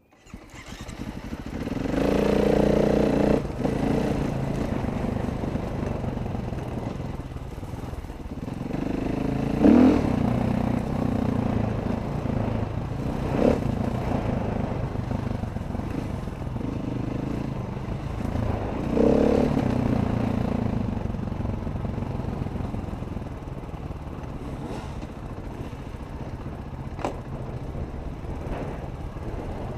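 Dirt bike engine running under changing throttle while riding a trail, swelling in several surges of revs, with occasional knocks and clatter from the bike over rough ground.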